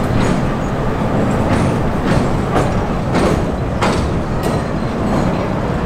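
Heritage railway train running along the track: a steady rumble with a wheel click over the rail joints about every half second.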